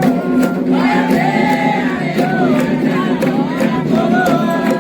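Crowd of worshippers singing and shouting together over drumming, with sharp percussive strikes at a steady pace.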